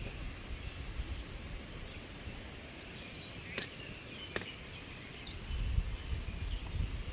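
Outdoor forest ambience: a low rumble of wind on the microphone that comes and goes, with faint bird chirps. Two sharp clicks sound about a second apart midway through.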